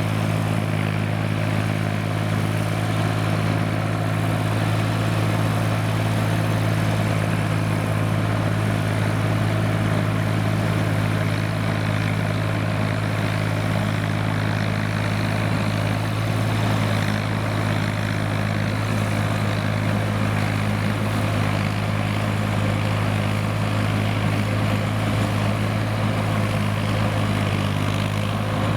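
Kubota M5000 tractor's diesel engine running steadily at an even speed, a constant low drone.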